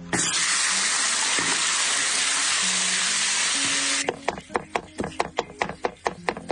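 A steady loud hiss starts suddenly and cuts off after about four seconds. A quick run of sharp clicks follows, about three or four a second, with background music.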